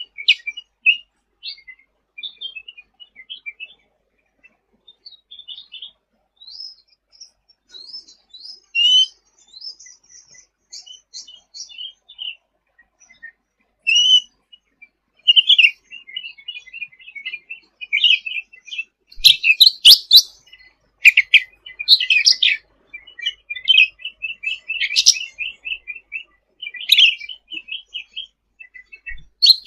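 Cucak ranting songbird in full, chattering song: rapid runs of short high chirps and trills, softer at first and louder with sharper notes from about two-thirds of the way through.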